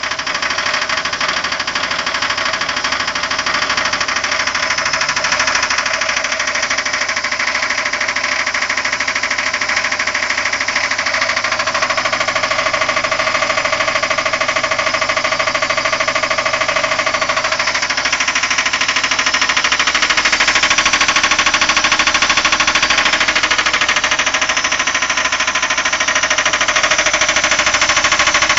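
Asko 11004 washing machine on spin, its drum bearings giving a horrible, fast rattling grind with a whine whose pitch shifts a couple of times; it grows a little louder in the second half. The uploader says the bearings are not worn out but make this sound at one specific spin speed.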